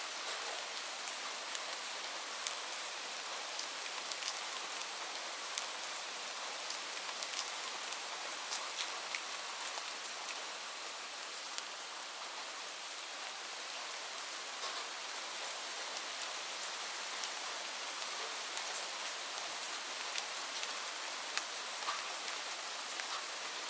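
Steady rain falling on leaves, a continuous hiss with many scattered individual drops ticking.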